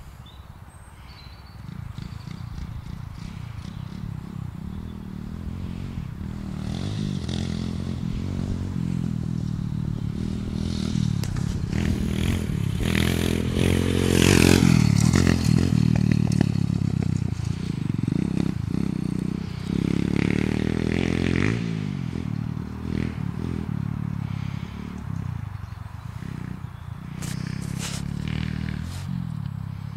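Pit bike engine running as it is ridden, the revs rising and falling and loudest around the middle, with some rattling and a few sharp clicks near the end.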